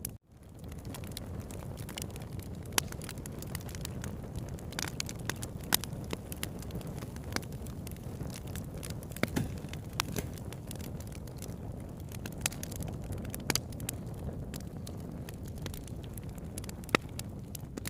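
Campfire burning: a steady low rumble of flames with irregular sharp crackles and pops of burning wood, a handful of them louder than the rest.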